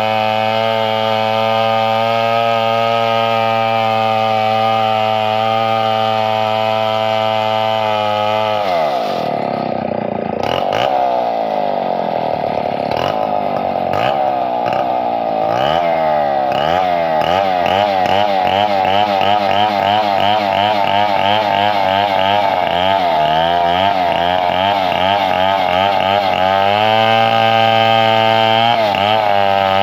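Two-stroke chainsaw running at high revs with a steady note, then dropping sharply in pitch about eight seconds in. For most of the rest its pitch wavers up and down over and over, and near the end it settles back to a steady high note.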